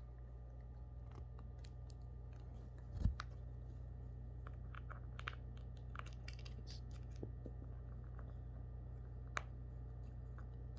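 Cockatoo chewing and nibbling with its beak: scattered small clicks and crunches, with one louder thump about three seconds in, over a steady low hum.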